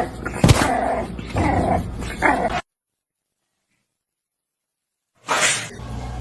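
An animal growling and crying out in short bursts for about two and a half seconds, then the sound cuts off abruptly to silence. Near the end a new sound starts with a sudden burst, followed by a steady low hum.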